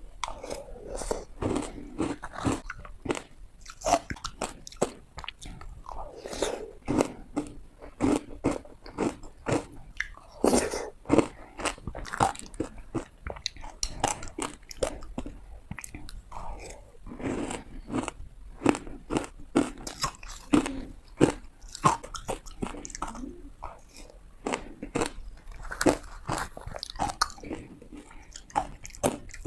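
Teeth biting and crunching through hard ice: many sharp cracks in quick succession, bite after bite.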